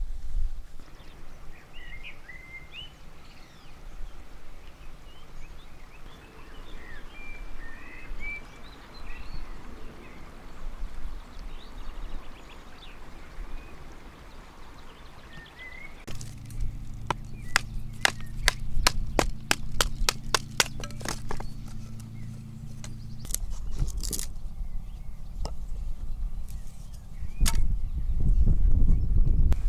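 Wild birds chirping and singing for the first half. About halfway through, a steady low hum starts with a quick run of sharp clicks, and it stops after about seven seconds. Low rumbling near the end.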